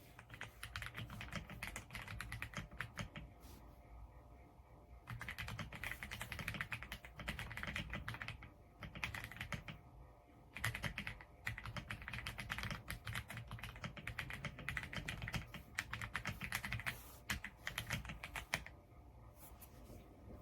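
Fast typing on an EPOMAKER x Aula F99 gasket-mount mechanical keyboard with Graywood V3 switches, rapid key clacks in long runs broken by a few short pauses. The typing stops a couple of seconds before the end.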